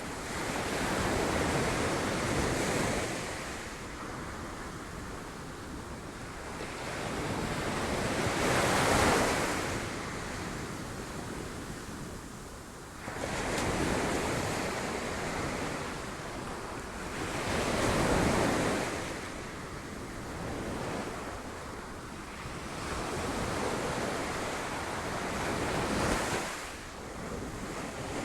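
Sea waves breaking on rocks: the surf rushes in and falls back in repeated swells, each a few seconds apart. The biggest breaks come about a third of the way in and again past the middle.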